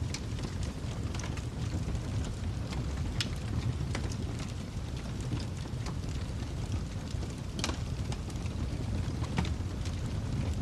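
Wood fire burning in a fireplace: a steady low rumble with scattered sharp crackles and pops, a few louder snaps near the start, in the middle and near the end.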